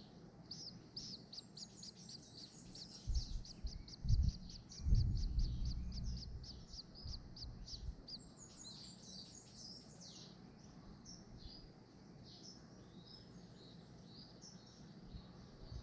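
Small birds chirping in a fast run of short high notes, about ten a second, that thins out to scattered chirps about ten seconds in. A few loud low thumps and a short rumble come between about three and six seconds in.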